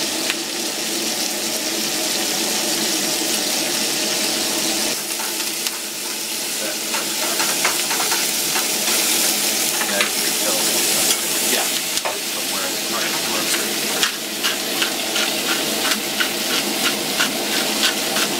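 Elk steaks searing and sliced peppers and onions frying in skillets: a steady sizzle. From about seven seconds in, a utensil clicks and scrapes against the pan again and again as the food is stirred.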